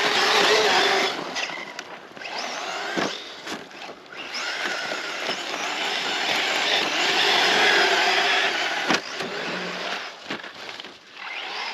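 Losi Tenacity TT Pro RC short-course truck driving hard over sand: its brushless electric motor whines, rising and falling with the throttle, while the tyres churn loose sand. The truck is loudest right at the start and again about six to eight seconds in.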